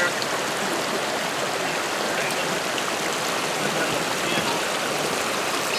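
Rushing water of a creek running over rocks: a steady, even rush with no breaks.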